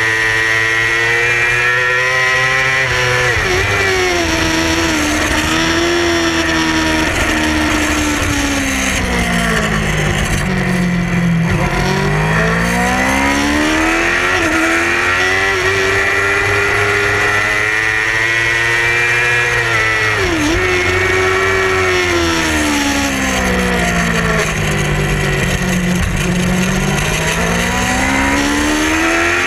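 Yamaha R6 race bike's 600cc inline-four engine running at high revs, its pitch sinking twice as the bike slows and climbing again as it accelerates, over steady wind noise.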